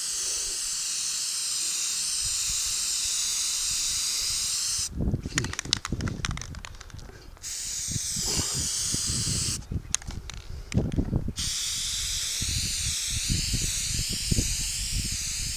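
Aerosol can of Flex Seal rubberized sealant spraying in three long hissing bursts, with brief knocks and handling noise in the pauses between them.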